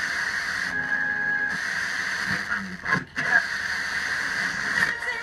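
Blaupunkt car radio giving out FM static hiss through a small mono speaker, as it sits between stations, with a brief faint tone about a second in and a short dropout just before three seconds.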